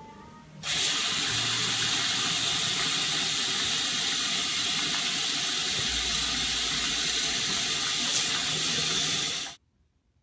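Water running hard and steadily, as from a tap. It starts abruptly about half a second in and cuts off suddenly near the end.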